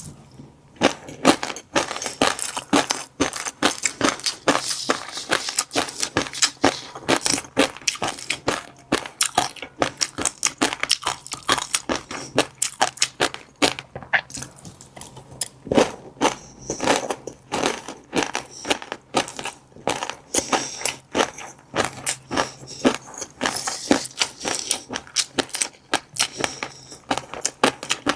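Close-miked chewing of a mouthful of fish roe, the eggs bursting in rapid, irregular crackling clicks.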